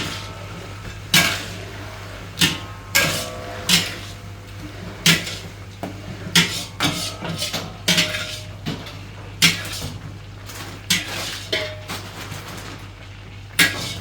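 A metal utensil striking and scraping a wok as textured soy protein chunks are stirred in frying oil, a clank about once a second with some strikes ringing briefly. A steady low hum runs underneath.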